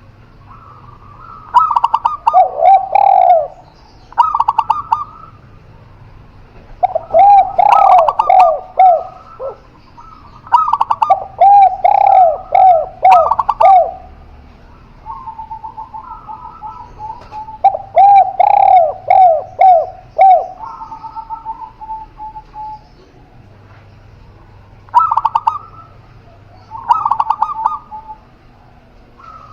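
Spotted dove and zebra dove cooing in turn: repeated phrases of quick falling coos lasting a few seconds each, with short pauses between them, and a steadier, higher run of notes about halfway through.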